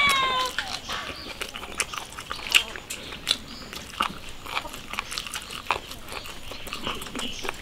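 Wet, close-up chewing and lip-smacking on roast lamb, irregular clicks and smacks throughout. Right at the start a dog gives a short, falling whine.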